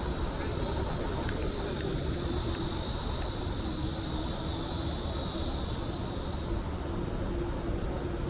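Steady low rumble of wind on the microphone and road noise while riding a bicycle, with a high hiss over it that stops suddenly about six and a half seconds in.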